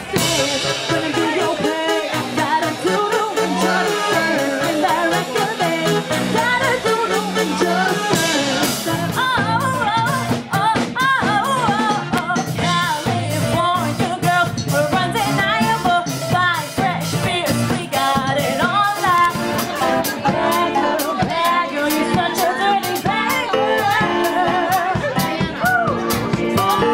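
Live rock band playing: singing over electric guitar and drum kit, loud and steady throughout.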